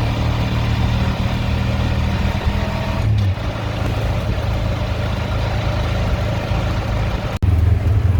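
Steady engine and road noise of a vehicle on the move, a low drone under a broad rushing hiss. The sound changes abruptly about three seconds in and drops out for an instant near the end before resuming louder.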